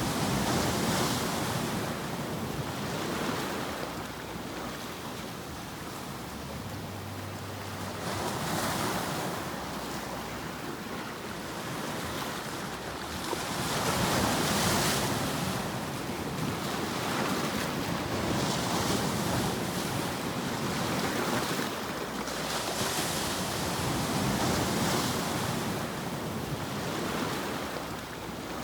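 White-noise sleep track: an even rushing hiss with no tones, swelling and fading every few seconds.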